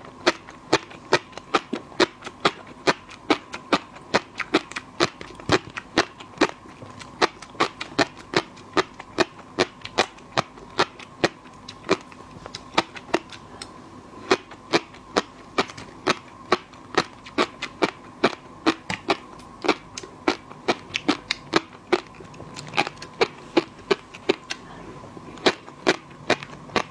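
Crunchy fish roe being chewed close to the microphone, the eggs popping in sharp crisp clicks about three a second. A faint steady hum runs underneath.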